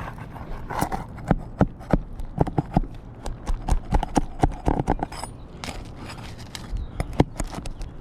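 Irregular sharp knocks and taps, several a second in places, from hand work on a shingle roof as a shingle is worked loose for repair.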